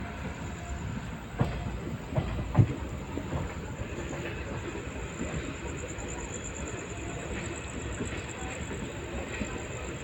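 Wheels of an LHB passenger coach running on the rails: a few sharp knocks over rail joints in the first three seconds, then a steady rumble with a faint high whine.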